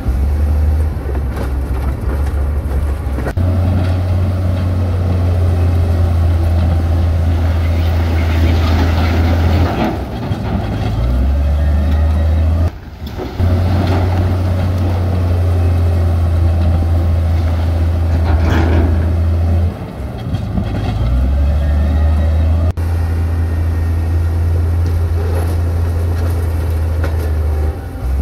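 Diesel engines of heavy construction machinery running with a steady deep drone. The sound changes abruptly a few times, at cuts in the footage.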